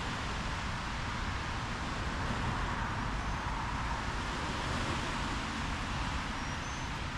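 Steady rushing of a swollen, fast-running creek.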